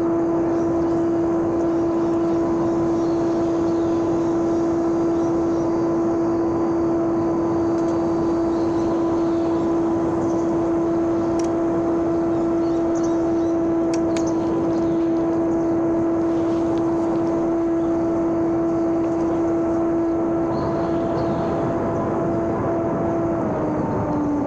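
Homemade electric RC airplane's motor and propeller running at steady throttle with an even whine. Near the end the pitch drops as the throttle is eased off.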